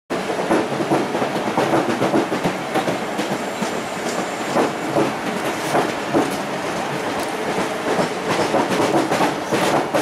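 Train running at speed, its wheels clattering over rail joints amid a steady rush of rolling noise; it cuts off abruptly at the very end.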